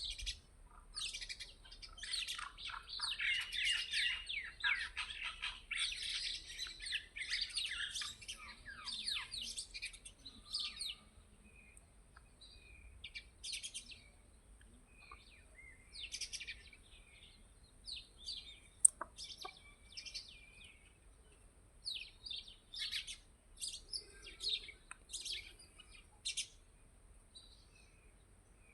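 Birds chirping: a dense flurry of many quick chirps for the first ten seconds or so, then scattered chirps. There is one sharp click about halfway through.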